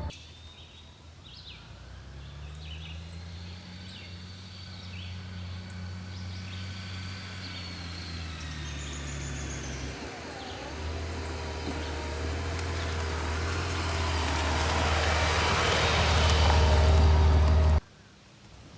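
Honda Gold Wing motorcycle riding, its engine a steady low hum under rising wind and road noise that grows louder through the second half, with birds chirping. The sound cuts off abruptly near the end.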